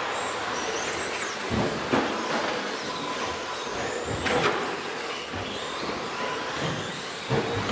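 Several 13.5-class 2WD electric RC racing trucks running on the track: a steady wash of tyre and drivetrain noise with faint high motor whines rising and falling, and a few sharp knocks as trucks land or hit.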